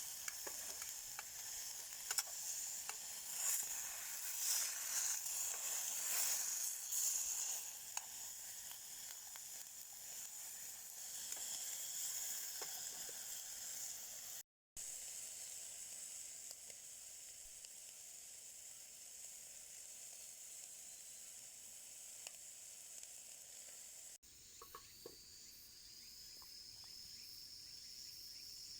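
Meat sizzling and crackling as it grills, a steady hiss with small pops. After a cut near the end, a steady high chirring of insects takes over.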